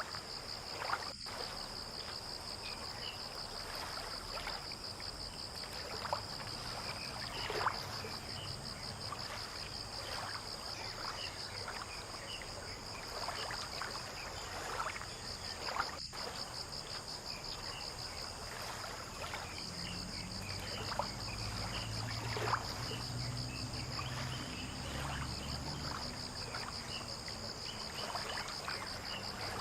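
Waterside dawn ambience: a steady high insect trill over small water sounds, light trickling and ticks. A low engine hum comes in about two-thirds of the way through.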